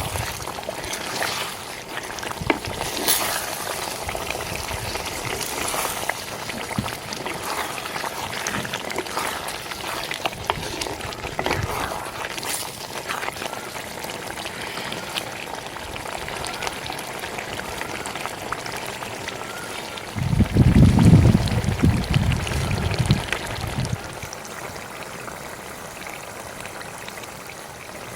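Curry bubbling and sizzling in a cooking pot, with scattered short clicks. About two-thirds of the way through, a louder low rumble lasts a few seconds.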